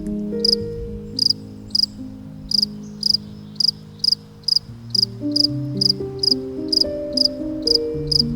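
Cricket chirping in short, evenly spaced chirps, about three every two seconds, over soft background music of slowly changing held chords.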